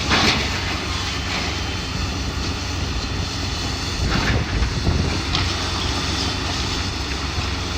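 Demolition of a building: a heavy machine's engine running steadily while debris crashes down, with a crash just after the start and more about four to five seconds in, as a door frame is torn out.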